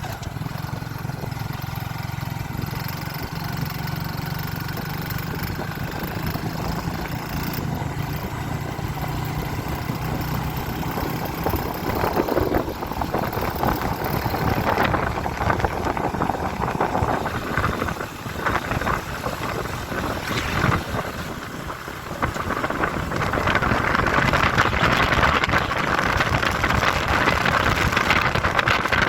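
Motorcycle engine running steadily while climbing. From about halfway through, a loud rushing noise on the microphone builds up, with uneven gusts, and drowns out the engine near the end.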